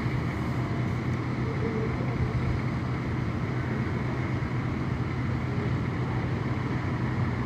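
Idling vehicle engine, a steady low hum under street noise.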